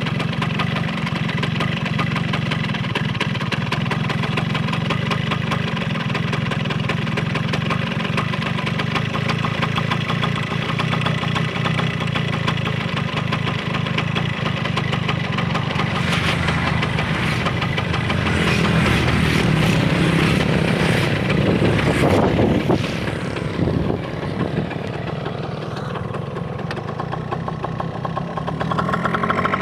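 Yamaha SS110 underbone motorcycle's 110 cc engine running at road speed with wind noise on the microphone. About two-thirds through, a louder rushing stretch of wind and traffic noise, and near the end the engine note climbs as it revs up.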